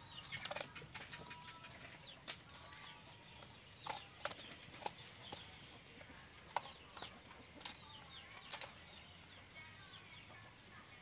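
Faint bird calls: scattered short chirps and clicks.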